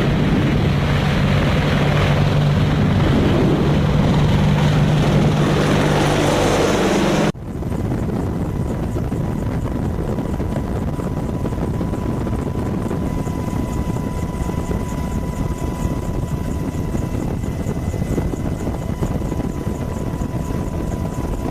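Apache attack helicopter running steadily, a loud rotor-and-engine din with a low hum. About seven seconds in it cuts abruptly to a quieter, steadier helicopter noise with a thin steady high tone over it.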